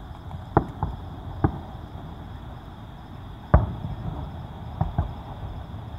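Aerial firework shells bursting: about half a dozen booms, the loudest about three and a half seconds in.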